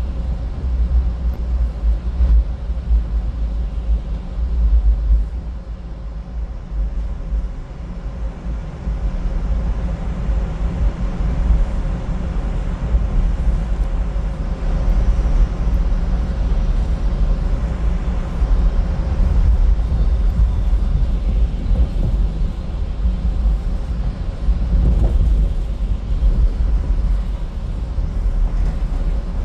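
Road noise of a car driving along a highway: a steady low rumble.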